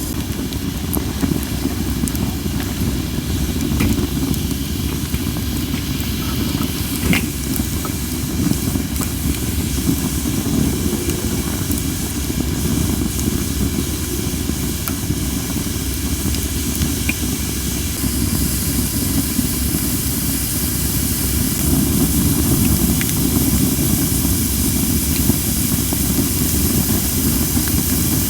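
Campfire of cherry wood burning, with scattered sharp crackles and pops (one louder pop about seven seconds in) over a steady hiss of steam from under-dried logs. Strong wind blows on the microphone as a continuous low rumble.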